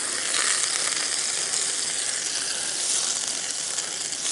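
Steady sizzling of water on a hot cast iron griddle as it is wiped down with a wet shop towel, with faint scraping.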